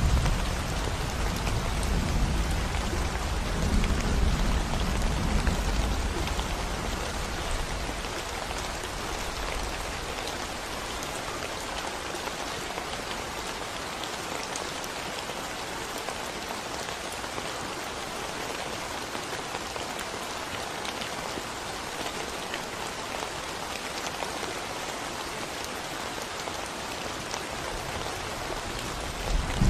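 Steady rain falling on a concrete road with surrounding plants. A low rumble of thunder dies away over the first several seconds, and another roll of thunder begins right at the end.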